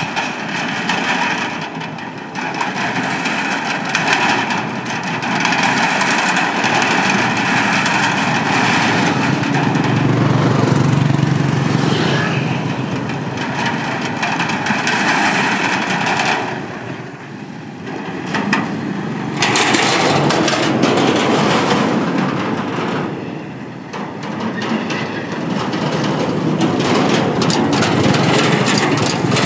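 Motorbikes crossing the Cẩm Kim steel bridge one after another: engines running and the noise of the bridge under the traffic, continuous and loud, easing briefly twice in the second half.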